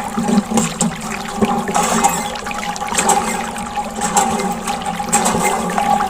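Water splashing and trickling from a miniature DIY water pump, over the steady hum of its small electric motor.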